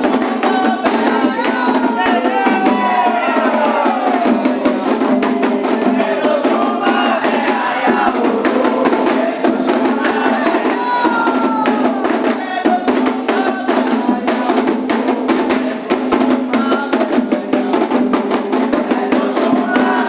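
Candomblé ritual music: rapid, continuous drumming on hand drums with voices singing a chant over it.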